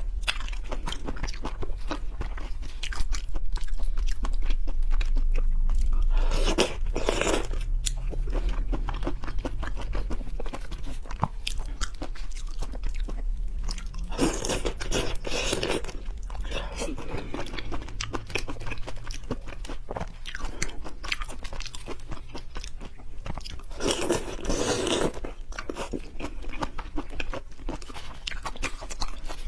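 Close-miked eating of sweet-and-spicy peeled shrimp: wet chewing and biting with many small mouth clicks and smacks. Louder bouts of chewing come about 7 seconds in, around 15 seconds and again near 24 seconds. A steady low hum runs underneath.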